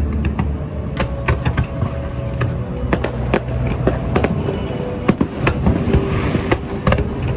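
Fireworks display: a rapid, irregular string of sharp bangs and crackles, several a second, over a continuous low rumble.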